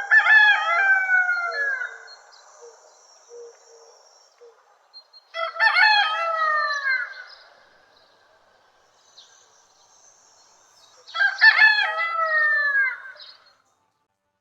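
Rooster crowing three times, each crow about two seconds long and falling in pitch at its end.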